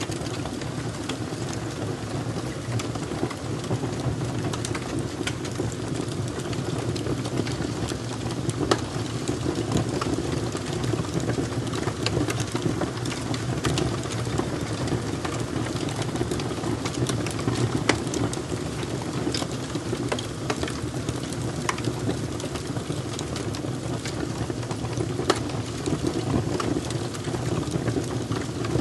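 Fire crackling steadily: frequent sharp, irregular pops and snaps over a continuous low rushing of the flames.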